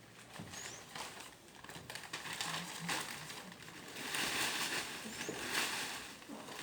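Newspaper being crumpled and handled as kindling: an irregular run of rustling crackles that grows denser and louder about four to six seconds in.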